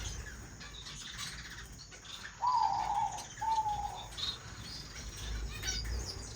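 Small pet finches chirping and twittering, with two louder, slightly falling calls one after the other about two and a half seconds in.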